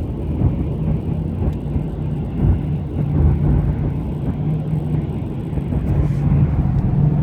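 Steady engine and road drone heard inside a 2016 Ford Mustang's cabin, with a constant low hum. Under it is a faint rattle from the dash at the headlight control knob, which stops for a while when the panel seam just below the knob is pressed.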